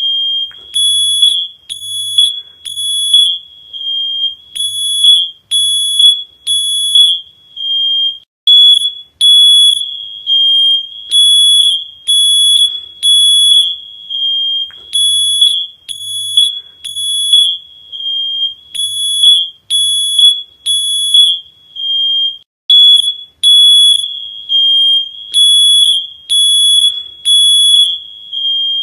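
Smoke alarm beeping over and over: a shrill high-pitched beep about once a second, in groups of about three with a short pause between groups.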